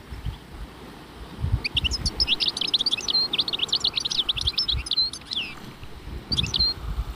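A small songbird singing a fast twittering song of quick high chirps and short sweeping notes, starting about a second and a half in and lasting about four seconds, with one more short burst near the end. Low thumps and rumble sit underneath.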